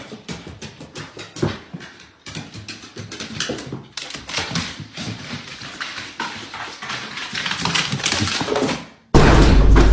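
Dog sounds among many short clicks and knocks, broken by cuts about two and four seconds in. A much louder sound starts suddenly near the end.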